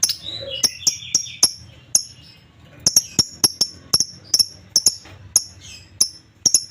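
Lovebirds calling: sharp, high, very short chirps repeating irregularly a few times a second, with a brief chatter about half a second in.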